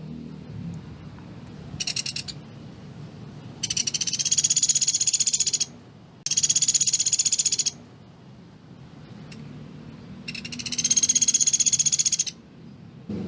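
Pelatuk beras woodpecker calling: a short burst, then three longer high, rapid rattling trills of about two seconds each, with pauses between them.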